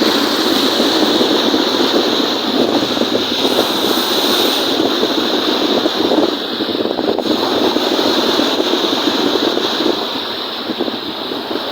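Wind-driven lake waves washing and breaking, with wind buffeting the microphone: a loud, steady rushing noise that eases slightly near the end.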